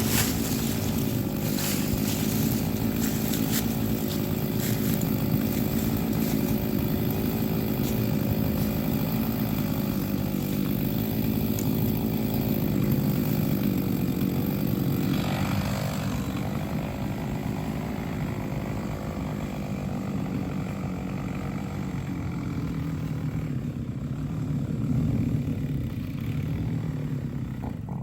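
Chainsaw engine running under load, cutting into a large oak trunk. About halfway through the sharp high cutting noise dies down while the engine keeps running, and the engine note swells briefly near the end.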